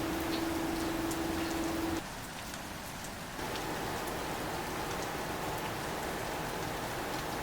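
Steady rain falling, with scattered ticks of single drops. A steady hum under the rain stops abruptly about two seconds in, the rain goes quieter for a moment, then returns louder.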